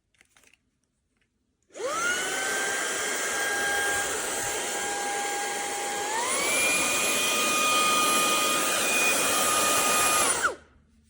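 Fanttik Slim V8 Apex cordless handheld vacuum switched on, its motor whining up to speed and running steadily, then stepping up to a higher-pitched, higher-power setting partway through before being switched off and winding down.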